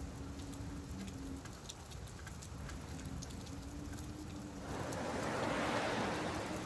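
Steady rain on a beach, with scattered drops ticking. About three quarters of the way through, a wave swells in and washes up, then eases off.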